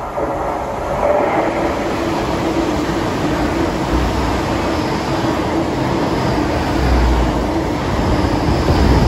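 GWR Hitachi Class 800-series intercity train running past the platform close by: a steady rush and rumble of the wheels on the rails that builds over the first second and holds, with a steady hum running through it.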